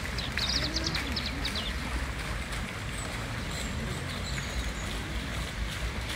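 A small bird chirping a quick run of high notes about half a second in, over a steady low rumble and the hiss of small garden-pond fountains splashing.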